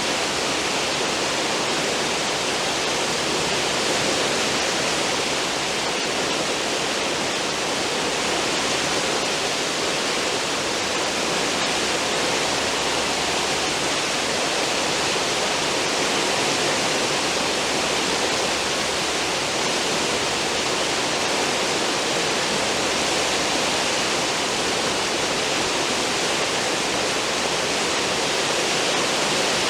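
Cruise ship's wake rushing and foaming behind the stern, a steady, unbroken water noise.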